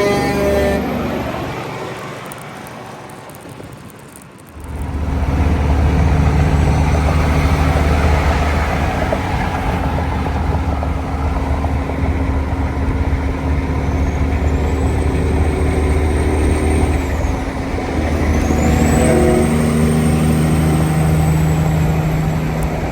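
A heavy diesel engine running steadily and loudly. It starts abruptly about five seconds in, after an earlier sound has faded away. A faint high whistle rises and falls twice near the end.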